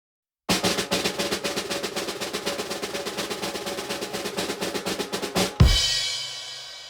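A snare drum roll of rapid, even strokes lasting about five seconds, ending in one loud crash-cymbal and bass-drum hit, with the cymbal ringing out and fading.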